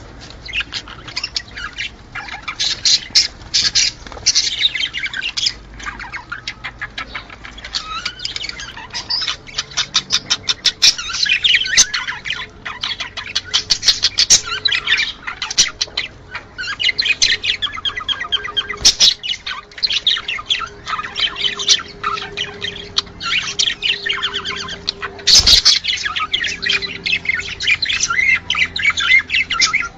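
A flock of budgerigars chattering and warbling, with rapid chirps, clicks and squawks: the breeding chatter of budgies in mating condition. One sharp knock sounds late on.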